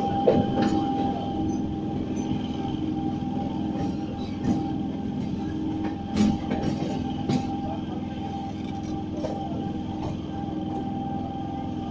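A train running along the track, heard from on board: a steady rumble with a constant whine, and a few sharp knocks near the middle as the wheels pass over rail joints and points.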